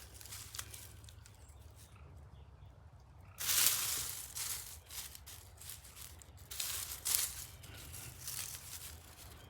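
Leaves and plant stems rustling in a few short bursts as someone moves among garden plants, with the loudest burst about three and a half seconds in, over a steady low rumble.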